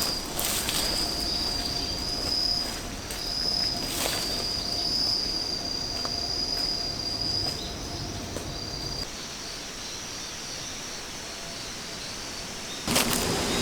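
An insect, cricket-like, singing one steady high-pitched trill with a few short breaks, stopping about nine seconds in, over faint outdoor background with a few sharp clicks. Near the end a louder rushing noise starts suddenly.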